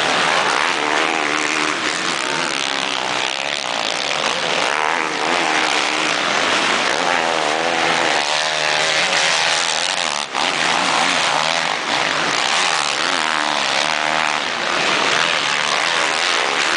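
Motocross bike engines revving, their pitch rising and falling with the throttle, with a brief dip about ten seconds in.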